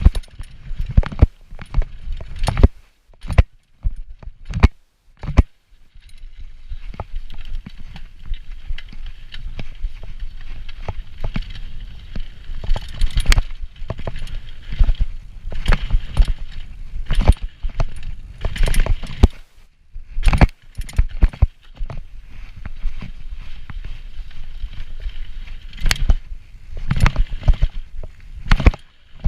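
Hardtail mountain bike rattling and clattering over rough trail: a rapid, uneven run of sharp knocks and jangles from the frame, chain and parts, over a steady rushing noise while it rolls.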